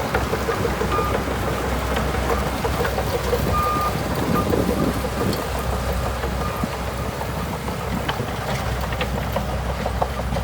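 Heavy earthmoving machinery running steadily, a diesel engine's low hum under rattling and scattered clanks. A short high tone sounds about a second in and again near four seconds.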